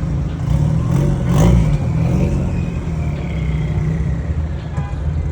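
Car engine running and revved, rising to its loudest about a second and a half in, with other car engines running at a car meet.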